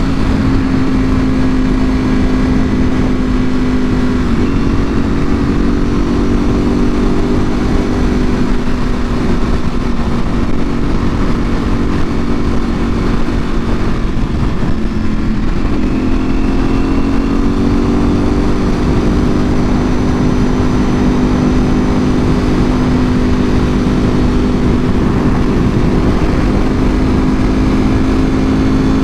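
Ducati Panigale V4R's V4 engine running through an Akrapovic full exhaust at a steady cruise, with wind noise on the microphone. The engine note shifts about 4 seconds in, dips about halfway through and then climbs steadily back up as the bike pulls again.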